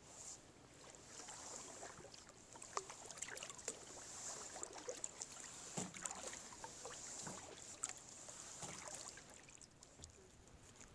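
A kayak moving on water under the paddle, with soft splashing and drips and many small irregular clicks and ticks.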